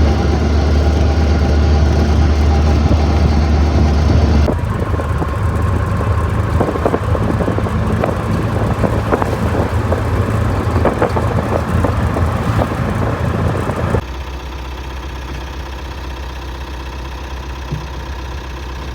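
Motor vehicle engine and road noise, steady with a strong low hum, made of three clips cut together: the sound changes abruptly about four and a half seconds in and again about fourteen seconds in, with a patter of small clicks and knocks in the middle part.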